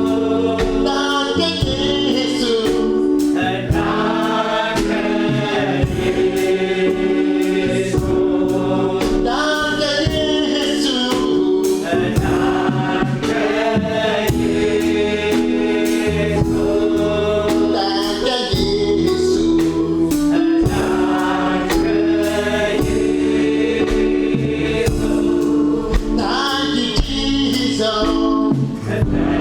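Gospel choir singing live with instrumental backing: sustained chords, a bass line and percussion.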